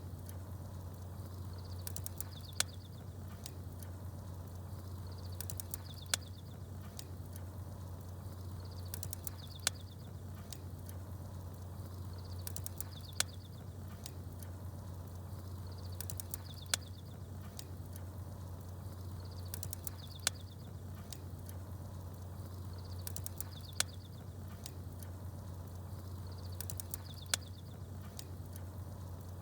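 Wood fire crackling with small birds chirping. A sharp pop and a cluster of high chirps come back at the same even spacing, about every three and a half seconds, over a steady low hum.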